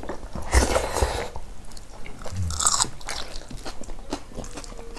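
People chewing and crunching food in irregular bites, with small clicks in between.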